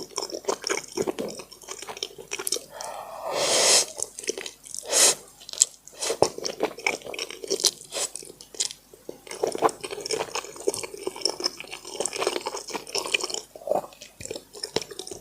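Close-miked chewing of braised pork, with wet smacking and clicking mouth sounds, and two longer, louder sucking noises about three and five seconds in.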